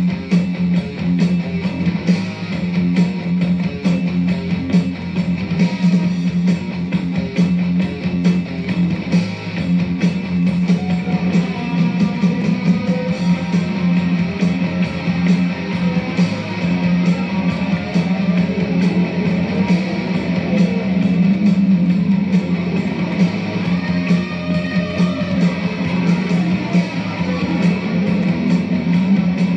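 Instrumental stretch of a 1980s heavy metal song, electric guitar to the fore over a steady drum beat, with no singing.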